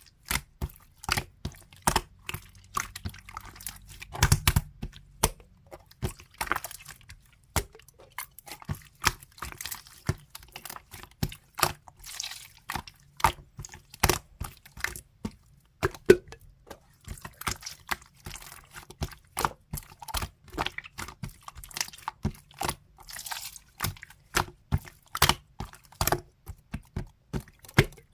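Slime being squeezed, folded and pressed by hand, giving a quick irregular run of sticky clicks and pops, several a second, with short wet squelches between them.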